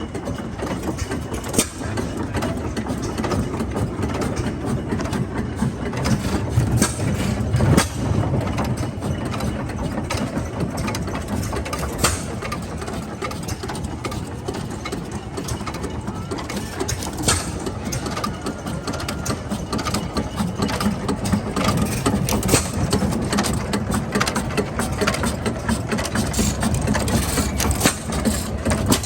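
A 1916 Sears, Roebuck and Company antique gasoline engine running steadily with a low chugging beat. Sharp louder cracks stand out every few seconds.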